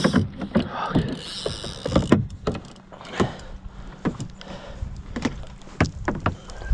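Irregular knocks and taps of gear being handled against a kayak's hull, many short hits a fraction of a second apart.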